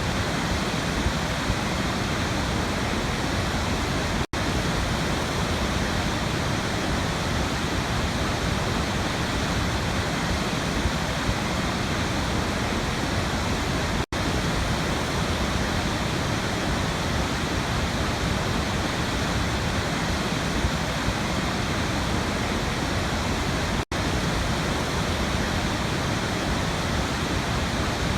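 Waterfall: steady, even rushing of falling water, broken three times by momentary dropouts about ten seconds apart.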